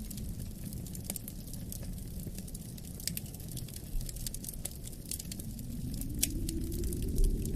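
Wood fire crackling with scattered sharp pops over a low, steady rumble of wind, which swells toward the end.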